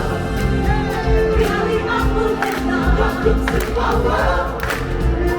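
Stage-show music with a choir of performers singing over a backing track, with regular drum hits.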